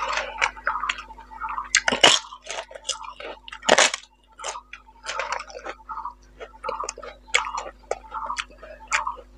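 Close-up eating sounds: wet chewing and lip smacks of rice and fish curry eaten by hand. Two loud crunches come about two and four seconds in as a fried papad is bitten.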